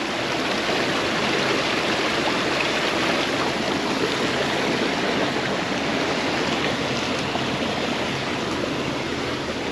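Pond water pouring out through a breach dug in an earthen dam: a steady rushing flow.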